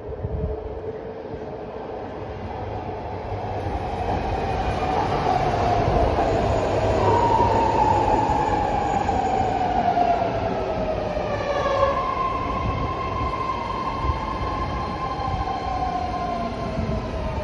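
Six-car BART Legacy fleet train pulling into the station platform: wheels rumbling on the rails, growing louder as it comes in, with several whines that fall in pitch as the train slows.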